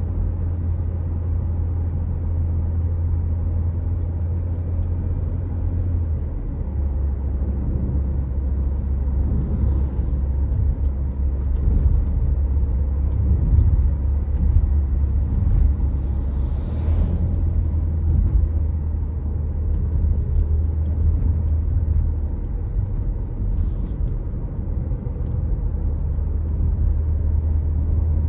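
A car driving on the road, with a steady low rumble of engine and tyres. The drone drops slightly in pitch about six seconds in.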